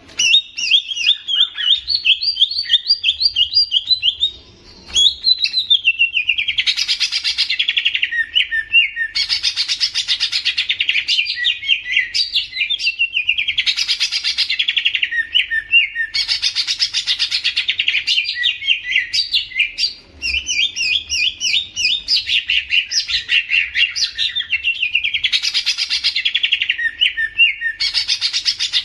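Songbird singing loudly in rapid, chattering chirp phrases that repeat every couple of seconds, with a short pause about five seconds in.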